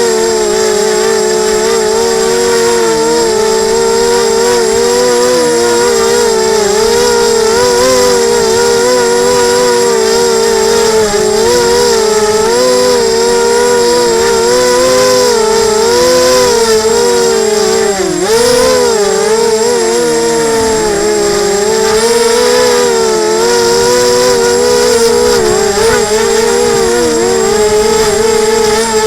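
Emax 250 quadcopter's motors and propellers whining steadily, the pitch wavering up and down as the throttle is adjusted, with a sharp dip about eighteen seconds in. Wind rumbles underneath.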